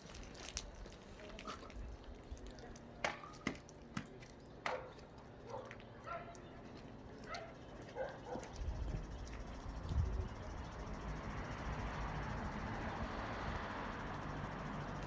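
A dog barking and yipping in a run of short calls, with a few sharp knocks among them. From about eight seconds in, a steady rushing noise builds up and holds.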